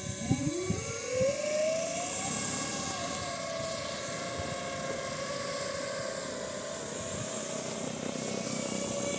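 Propeller motors of a large radio-controlled C-160 Transall model plane spooling up. The pitch rises over the first second or so, then settles into a steady whine.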